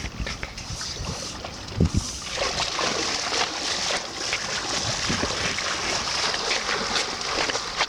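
Wind and waves at the Caspian seashore. Low gusts buffet the microphone at first, then from about two seconds in a steady hissing wash of surf and wind takes over.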